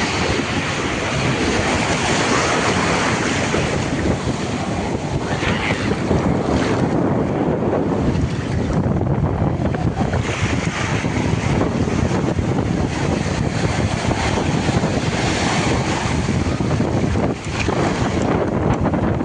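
Ocean surf breaking and washing up the beach, in surges that hiss louder several times, with heavy wind buffeting the microphone as a constant low rumble.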